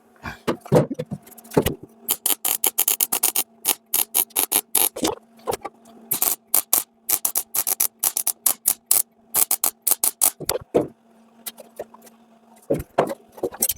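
MIG welder stitch-welding a thin steel repair section into a car bulkhead: a quick run of short welding bursts, several a second, over a steady hum, stopping about eleven seconds in with a couple more just before the end.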